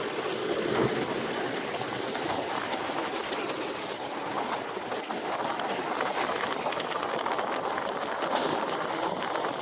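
Steady rush of wind and road noise from a motorcycle moving along at speed, with no breaks.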